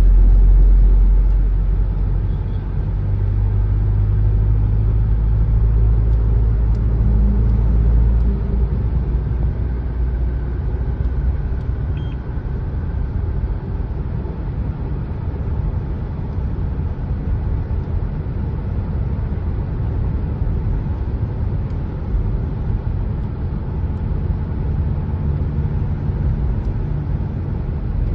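Motor vehicle on the move: a steady low rumble of engine and road noise, heaviest for the first several seconds and then settling a little quieter.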